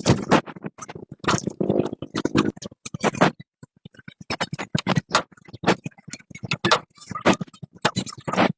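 Irregular clicks and knocks, several a second, with short pauses between runs, typical of tools and small hard parts being handled.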